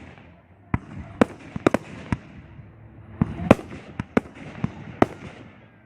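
Fireworks display: about ten sharp bangs of aerial firework shells at uneven intervals, in clusters, the loudest about three and a half seconds in.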